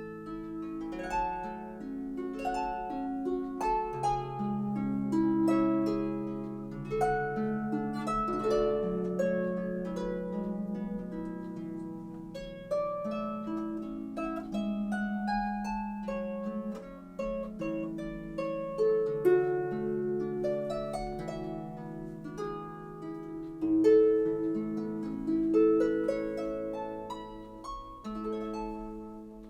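Solo harp music: a run of plucked notes ringing over one another, fading out near the end.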